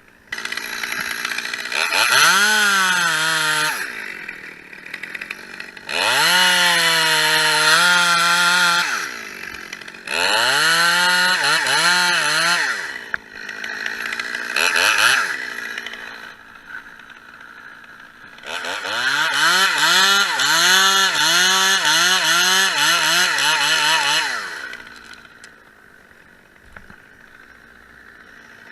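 Two-stroke chainsaw revving up in five bursts and cutting lime wood, its pitch sagging and wavering under the load of each cut, then dropping back to a steady idle between cuts.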